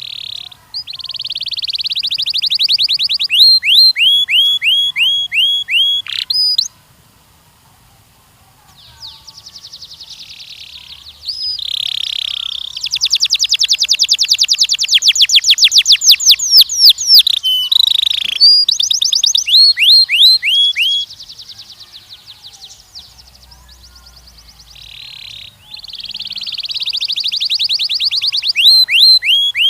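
Canary singing: long phrases of very fast repeated notes and rolling trills, broken by short falling notes, with a brief pause about seven seconds in and a softer stretch near the end.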